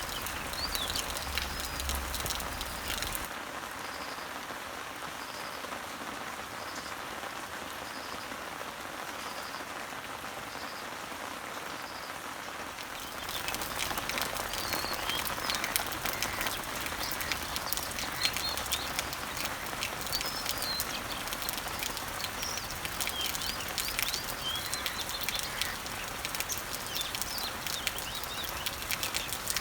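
Rain falling on leaves and trees, a steady patter of drops, with birds chirping. Through the middle, one bird repeats a short high note about once a second. About halfway through, the dripping grows denser and louder again and more chirps come in.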